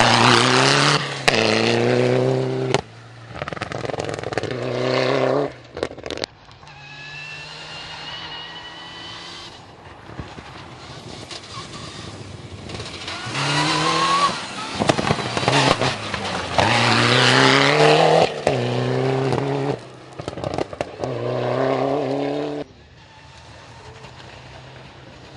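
N4-class rally car engines revving hard and accelerating through the gears: the engine note climbs in pitch again and again, with short breaks at each gear change, loudest near the start and in the second half, with a quieter steadier stretch in between.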